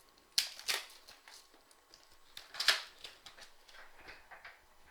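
Cardboard trading card boxes being sliced open with a blade and the packs pulled out: a few short, sharp cuts and scrapes, the loudest about two and a half seconds in, with light rustling of cardboard and packs between.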